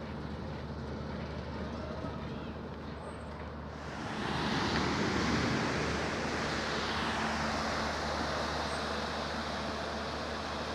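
Steady outdoor traffic rumble, with a louder vehicle passing close from about four seconds in.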